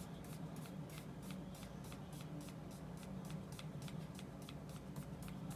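Paintbrush loaded with oil paint scrubbing back and forth on gesso-primed paper in a fast, even rhythm of about six short strokes a second, over a faint low hum.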